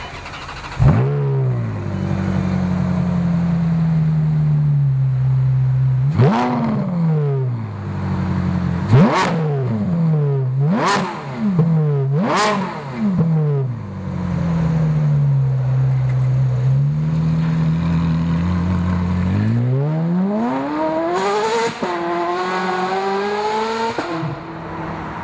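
Ferrari F430 Scuderia's 4.3-litre V8, breathing through headers, catalytic-converter bypass pipes with resonators and an X-pipe muffler delete, starts up about a second in and settles from a high idle. Four quick throttle blips follow, then a longer rev held for a few seconds before it drops back to idle.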